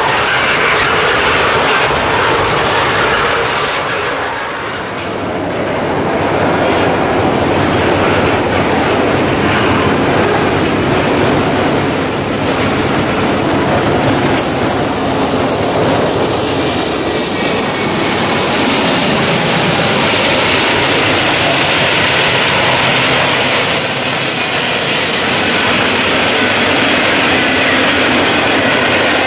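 Norfolk Southern freight cars rolling past: a steady rumble and clatter of steel wheels on the rails, with a high wheel squeal for a few seconds near the middle.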